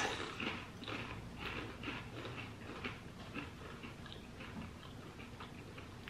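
A person chewing crunchy almond chips: a run of faint crisp crackles and crunches that thin out over the last second or two.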